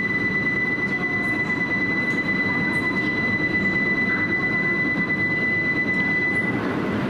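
Running noise inside the cabin of an E2 series Shinkansen: a steady low rumble, with a high steady squeal over it that stops about six and a half seconds in.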